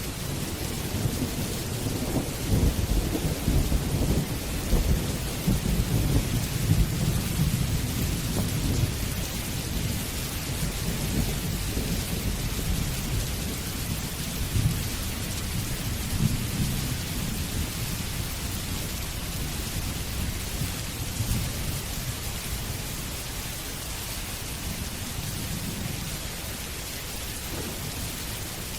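Steady rain falling, with a low rolling rumble of thunder that is strongest in the first several seconds and fades away later on.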